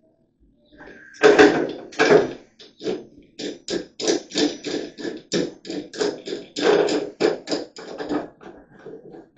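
A fast run of hammer taps on wood lath, about two or three strikes a second, starting about a second in, with the hardest blows at the start.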